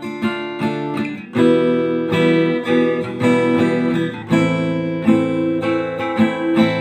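Acoustic guitar strummed in the eight-stroke pattern ("бой восьмерка"), one full pattern per chord, changing chord about a second and a half in and again about four seconds in.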